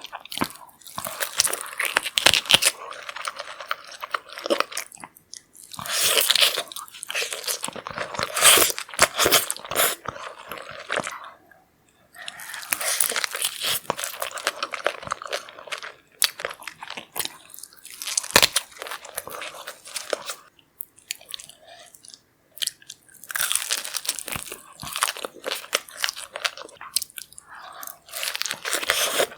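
Close-miked eating of saucy seafood: wet crunching and chewing in stretches of a few seconds, with short pauses between bites.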